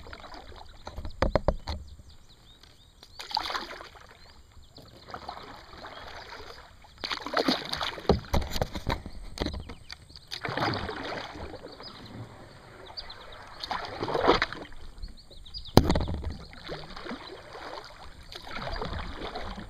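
Kayak paddle strokes: water swishing off the blades in repeated swells, roughly one every three to four seconds, with a sharp knock about sixteen seconds in.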